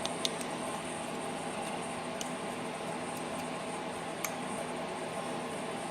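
A few faint clicks of needle-nose pliers working the small metal PCV valve on a generator's breather plate, bending it open, over a steady room hum.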